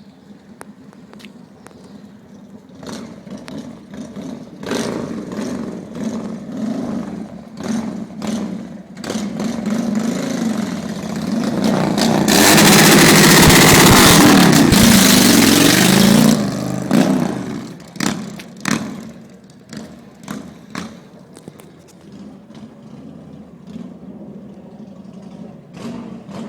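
Honda Shadow 750's V-twin engine idling and blipped repeatedly, with one long hard rev about halfway through that is the loudest part, then shorter blips with sharp exhaust pops as it drops back to idle.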